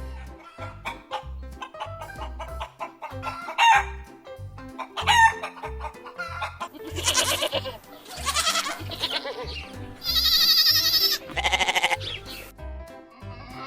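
Rooster crowing several times in the second half, over background music with a steady beat.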